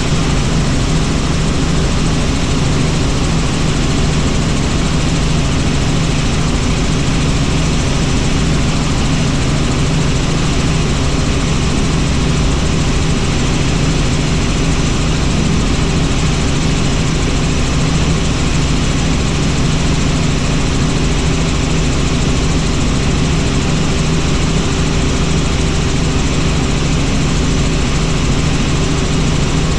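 Helicopter in flight: its engine and rotor give a loud, steady drone with a strong low hum that does not change.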